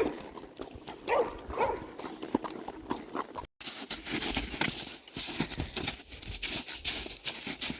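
A dog barks twice, then after an abrupt cut, horse hooves clop amid rustling.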